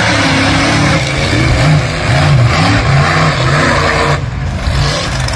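Monster truck engine running hard on full throttle after the launch, its note rising and falling again and again as the truck drives the course.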